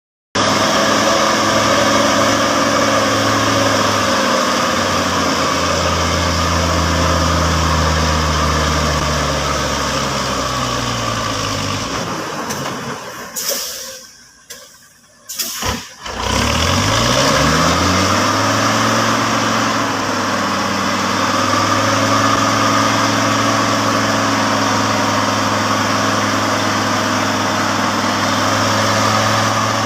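A truck engine runs under a steady hiss, its note shifting and then falling away. About twelve seconds in the sound nearly cuts out for a few seconds. The engine note then climbs and settles into a steady run.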